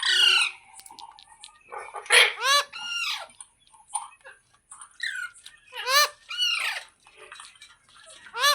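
A green parrot screeching: loud, harsh squawks, each falling in pitch, repeated in short groups of two or three every couple of seconds.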